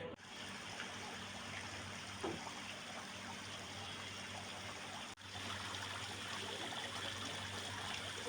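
Steady trickling, running water, broken by a brief dropout about five seconds in.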